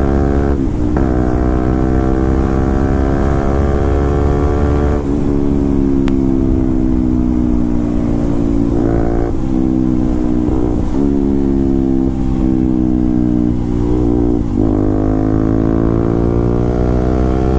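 Motorcycle with an SC Project aftermarket exhaust running loud under way. The engine note climbs and falls with the throttle, broken by several short gaps at gear changes, and rises again near the end.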